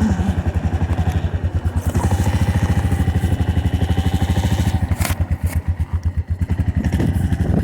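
Four-wheeler (ATV) engine running on choke just after a cold start in freezing weather, a fast, even chain of firing pulses. It sags briefly about six seconds in, and there is a sharp click about five seconds in.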